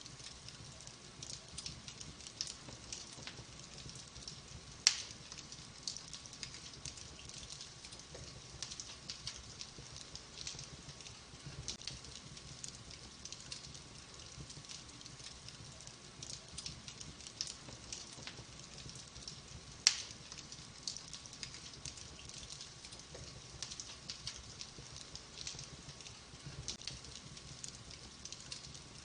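Wood logs burning in a fireplace: a steady stream of fine crackles, with two louder sharp pops about fifteen seconds apart.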